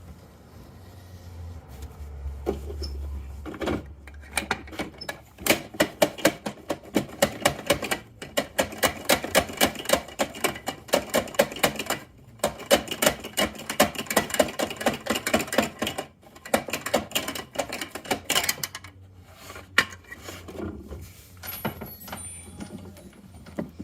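Toy Bruder Mack garbage truck's plastic mechanism clicking rapidly, several clicks a second, as it is worked by hand, in runs broken by short pauses.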